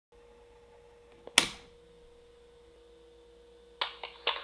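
A faint steady tone, with one sharp click about a second and a half in and two smaller clicks near the end.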